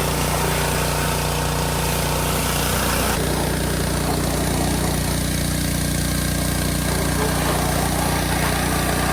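Gas pressure washer running steadily, its small engine droning under the hiss of the water spray as the underside is washed. The spray sound shifts about three seconds in.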